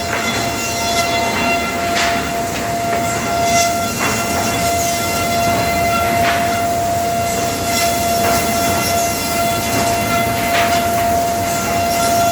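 Four-sided planer-moulder running at speed: steady, loud machine noise with a constant high whine, and short sharp sounds every second or two.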